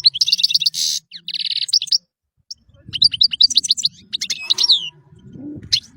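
European goldfinch singing: fast twittering phrases with buzzy trills, a short pause about two seconds in, then more rapid twitters and sweeping notes, over a faint low rumble.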